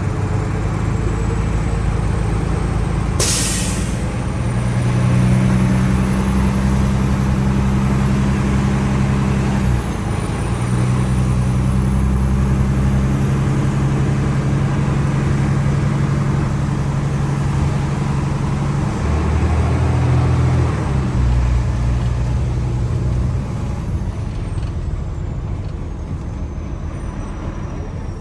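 Truck engine running, its speed stepping up and down several times, with a short sharp burst of air hiss about three seconds in and a faint high whine drifting up and down.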